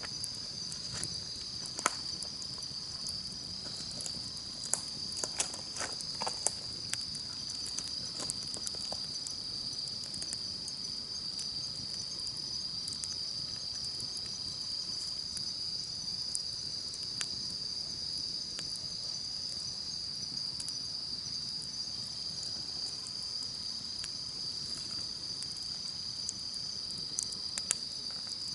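A steady, high-pitched chorus of insects trilling without pause, over the scattered crackles and pops of a wood campfire. The crackles come more often in roughly the first third and again near the end.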